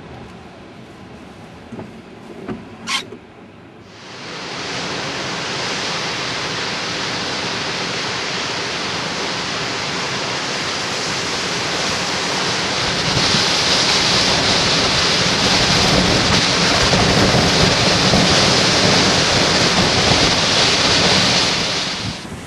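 Storm-force wind rushing and buffeting against the microphone. It comes in suddenly about four seconds in after a short click, grows louder about halfway through, and cuts off sharply just before the end.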